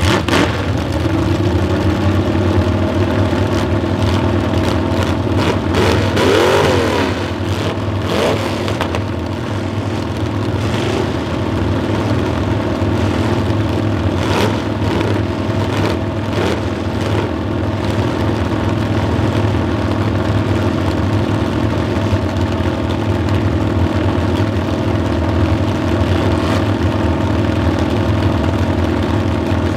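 Several demolition derby car engines idling steadily with a low drone, one revving briefly with a wavering pitch about six seconds in, and a few scattered knocks.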